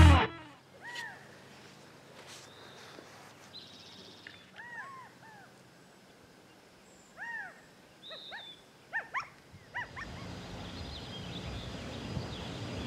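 Wild bird calls: short, sharp notes that each rise and fall quickly, given singly and in quick pairs over several seconds. From about ten seconds in, a low rumble slowly builds.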